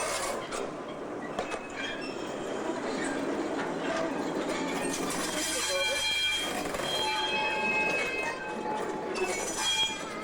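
Loose-coupled goods wagons being shunted, rolling and banging together with clanking buffers and couplings. Thin high wheel squeals join in during the second half.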